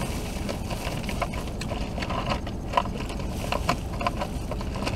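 Soft mouth and handling clicks from chewing a steamed bao bun, scattered over a steady hum inside a car cabin.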